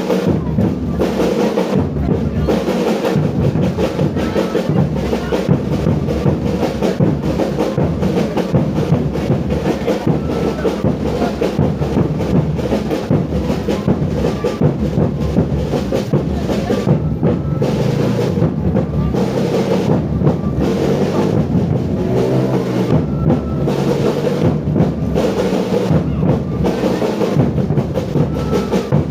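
Music with drums, bass drum and snare beating a steady rhythm.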